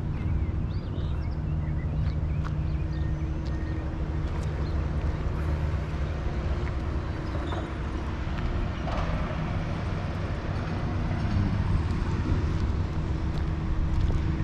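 An engine running steadily with a low pitched hum, the sound of a vehicle or heavy machinery working close by.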